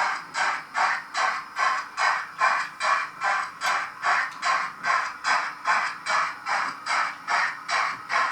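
Digital sound decoder of a Roco H0 model class 01 steam locomotive playing steam exhaust chuffs through the model's small speaker as it runs. The beat is steady, about two and a half hissing chuffs a second.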